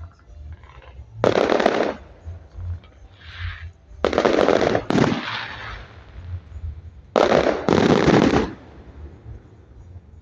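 Aerial fireworks bursting in five loud volleys, each under a second long: one, then a pair, then another pair.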